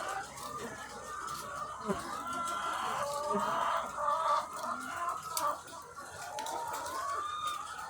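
A large flock of egg-laying hens clucking and calling together, many overlapping voices at once.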